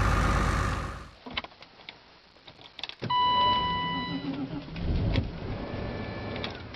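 Engine running cuts off about a second in; then a few sharp clicks and a steady electronic beep lasting about a second, like a car's dashboard warning chime, followed by a brief low rumble.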